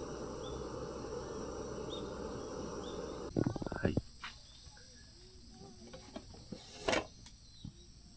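Crickets and other insects chirping steadily in high thin tones. A low rushing noise underneath cuts off abruptly about three seconds in, followed by a short run of clicks and crackles and a brief louder rustle near the end.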